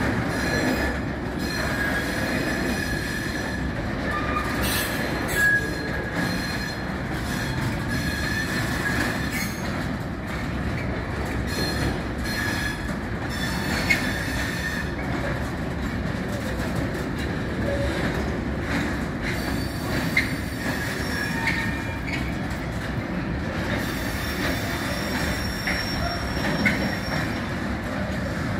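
A rake of autoballaster hopper wagons rolls steadily past with continuous wheel-on-rail rumble. The wheels squeal on and off throughout, and a few sharper knocks come from the wheels over the rail joints.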